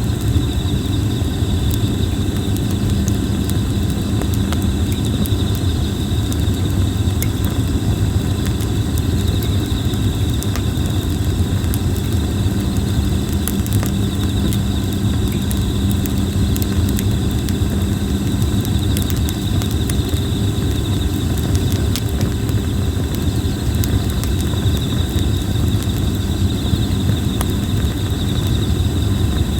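Red plum wood campfire burning, with frequent sharp crackles and pops over a steady low rumble. Insects call in a steady high-pitched drone that swells and fades.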